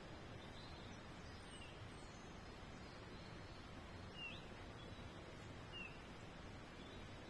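Faint bird chirps: about three short, falling calls a second or two apart over a steady background hiss.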